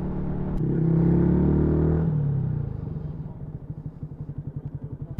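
Small single-cylinder motorcycle engine (a Yamaha MT-125 on an aftermarket full exhaust) revving up under acceleration, pitch rising about half a second in, then easing off with falling pitch. From about three seconds in it drops to a quieter, even, rapid throb as the throttle closes.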